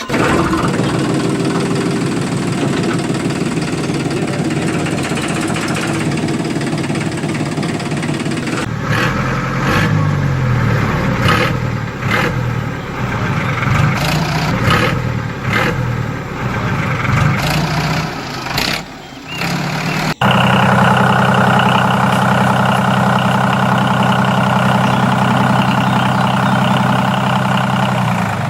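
Small engine of a homemade mini tractor running: steady at first, then its speed rising and falling for some ten seconds. About two-thirds through, the sound cuts suddenly to a steady, even-pitched run.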